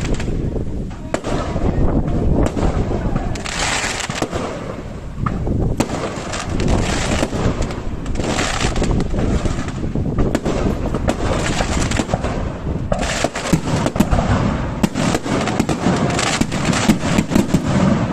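Aerial fireworks display: a rapid, continuous run of bangs, with bursts of crackling hiss about four, eight, thirteen and sixteen seconds in.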